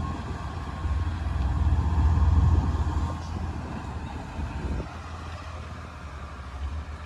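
Bulldozer's diesel engine running with a deep rumble, louder for the first three seconds and then gradually easing off.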